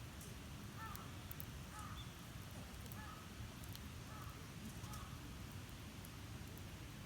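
Crow cawing faintly, five short calls about a second apart, over a steady low background rumble.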